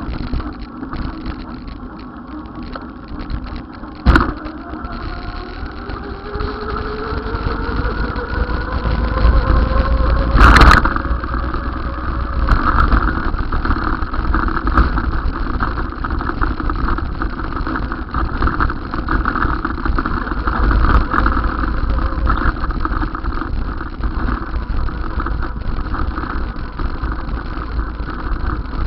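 Road vehicle noise with low wind rumble, while riding. A pitch rises over several seconds, with a sharp knock about four seconds in and a louder thump about ten seconds in.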